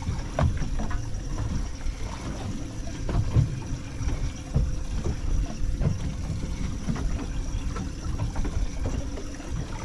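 Water slapping against the hull of a small boat, with a low rumble of wind on the microphone and scattered knocks.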